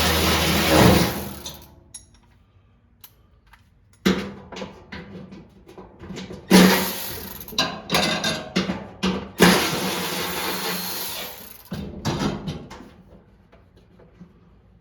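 Power drill running in several short bursts, with clicks and knocks of parts being handled between them.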